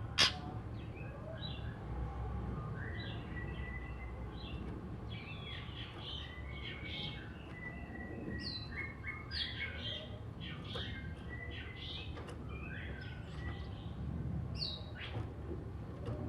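Oriental magpie-robin (kacer) singing a long, varied run of short whistles and chirps over a low background rumble. A single sharp knock sounds just at the start.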